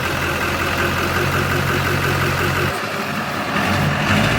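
Truck engine idling with a steady low hum; the hum shifts in pitch about two and a half seconds in.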